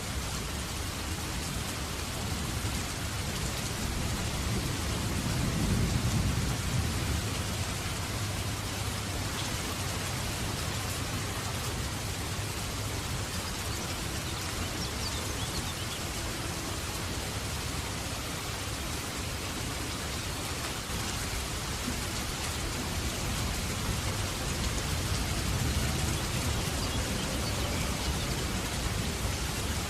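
Heavy rain falling steadily in a dense hiss. Low rolls of thunder swell about five seconds in and again near the end.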